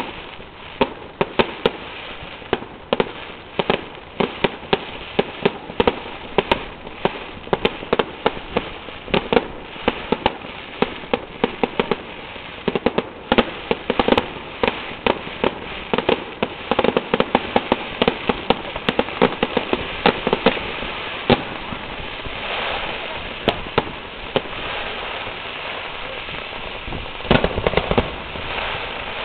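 Fireworks display: a rapid, irregular string of sharp bangs from shells bursting, often several a second. About three-quarters of the way in, the bangs thin out into a denser crackling rush before the sharp reports pick up again near the end.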